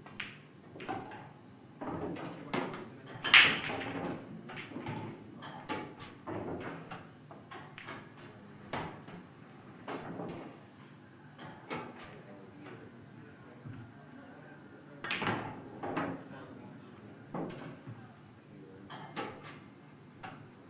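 Repeated sharp clacks and knocks of pool balls and cue during play, the loudest about three seconds in, with low voices in the room.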